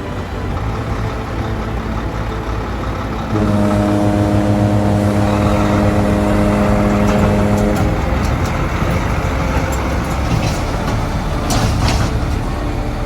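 Road traffic with trucks passing. A few seconds in, a loud steady multi-tone note, like a vehicle horn, is held for about four seconds and then cuts off.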